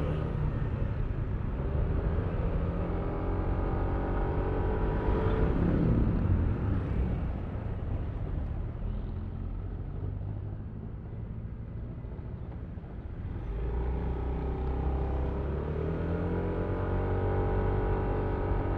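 Yamaha Aerox V3 scooter engine pulling up in pitch, dropping off about six seconds in and running quieter for several seconds, then rising again near the end as it accelerates, over a steady low rumble.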